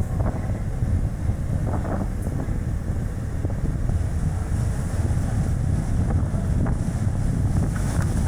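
Strong gusting wind buffeting the action camera's microphone, a steady low rumble mixed with tyre and road noise from a moving light car.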